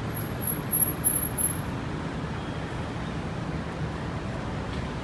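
Steady city street traffic. In the first two seconds there is a quick run of about five short, very high-pitched chirps.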